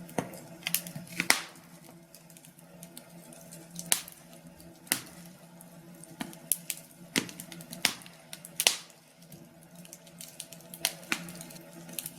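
Log fire crackling: irregular sharp pops and snaps, a few louder ones, over a faint steady hum.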